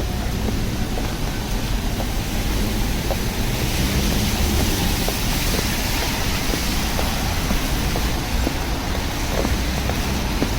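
Rainy city street ambience: a steady low rumble of traffic, with the hiss of tyres on the wet road swelling and fading as a vehicle passes near the middle, and light scattered ticks.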